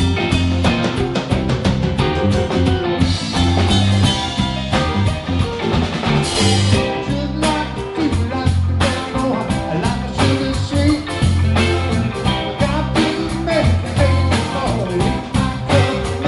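Rock music: a band playing guitar, bass and drums with a steady beat.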